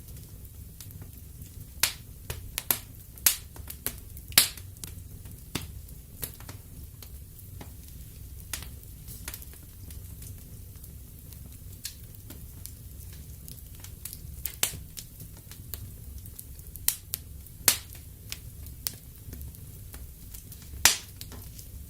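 Wood fire in a fireplace crackling: irregular sharp pops and snaps over a low steady rumble, the loudest pops about four seconds in and near the end.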